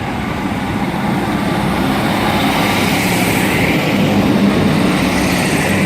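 Class 156 diesel multiple unit running at the platform: a steady low engine drone with a hiss that swells in the middle and eases off near the end.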